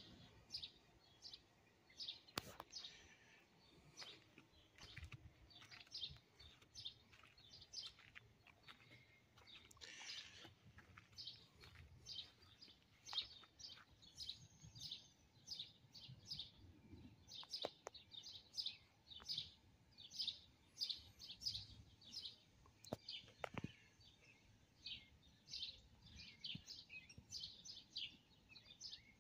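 Faint bird chirping: short high chirps repeating several times a second, with a few sharp clicks.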